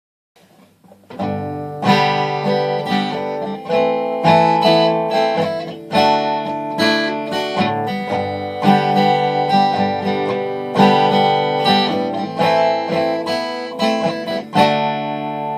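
Strummed guitar playing chords in a steady rhythm, starting about a second in.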